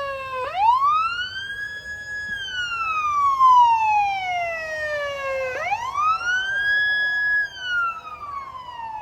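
Emergency-vehicle siren wailing: its pitch rises over about a second and a half, holds briefly, then falls slowly over about three seconds. The cycle repeats twice.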